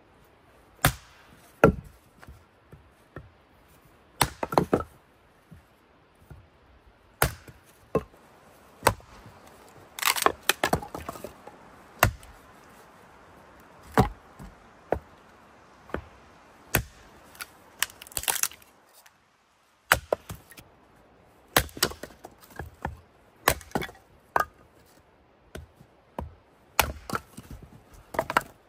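Wood being chopped with an axe: single sharp strikes every second or two, with short crackling bursts of splintering wood among them.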